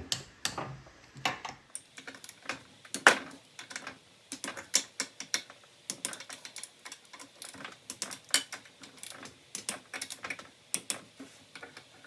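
Torque wrench ratcheting and clicking in short, irregular clicks on the cylinder head bolts of a Briggs and Stratton 17.5 engine: a final pass around all the bolts to check they are at torque.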